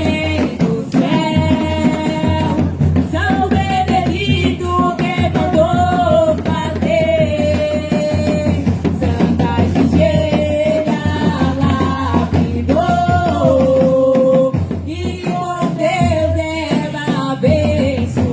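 Singing with drum and percussion accompaniment: a sung melody carried over a steady, dense drum rhythm.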